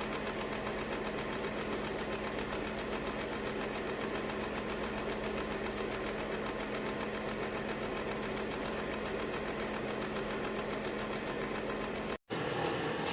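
Small ceramic electric space heater's fan running steadily with a constant hum. Near the end it cuts out for an instant and comes back sounding different.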